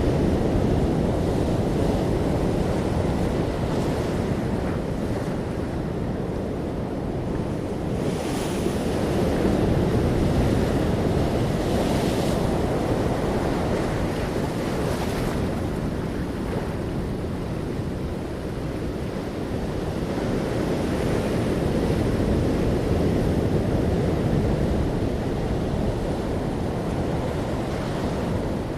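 Ocean waves breaking and washing in, with wind rumbling across the microphone; the surf swells and eases slowly, with a few brief brighter hisses of breaking water.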